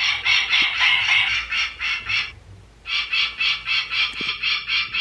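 Recorded peregrine falcon call played from the small speaker of a Wild Republic plush bird: a fast, even series of harsh 'kak-kak-kak' notes, about four a second, breaking off briefly a little past halfway and then starting again.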